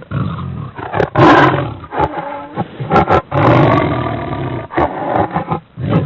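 Lion roaring, several loud roars in a row with short pauses between, from a recording that sounds dull because its top end is cut off.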